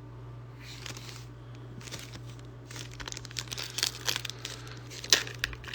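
Crinkling and rustling of a foil Pokémon card booster pack wrapper being handled, in irregular crackles that start sparse and grow denser over the last few seconds.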